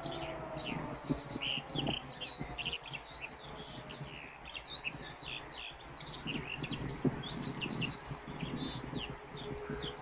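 Small birds chirping and singing continuously, while a distant civil defence siren winds down and fades in the first couple of seconds and starts to rise again near the end. Two brief knocks stand out.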